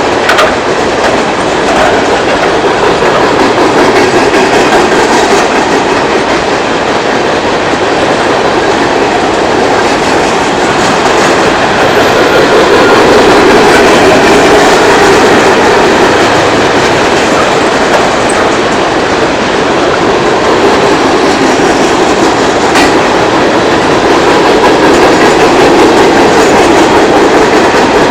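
Freight train of steel-coil cars rolling past: loud, steady noise of steel wheels on the rails.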